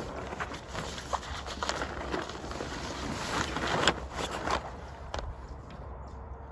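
Irregular knocks, clicks and rustling from handling a small sailboat's mast and rigging. The knocking eases off about five seconds in.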